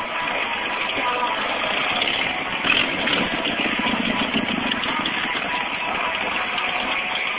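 Stunt motorcycle engine running at idle, with a slight swell in its low rumble midway, heard through a cell phone's microphone.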